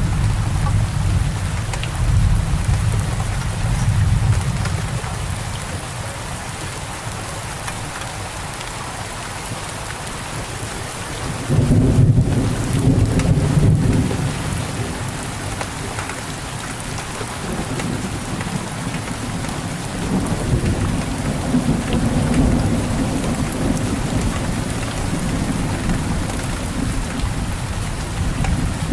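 Steady rain falling in a thunderstorm, with low rolls of thunder rumbling underneath; the loudest roll comes about twelve seconds in and lasts a couple of seconds.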